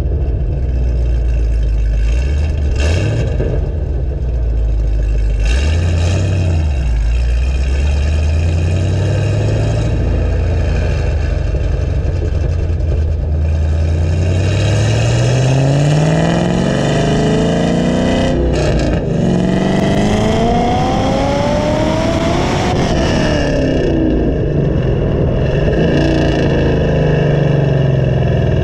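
A 2014 Camaro ZL1's supercharged 6.2-litre V8 running under way. Early on it gives two short blips. Then it accelerates, the revs climbing steadily, and breaks briefly at what sounds like a gear change. It climbs again, then the revs fall away near the end.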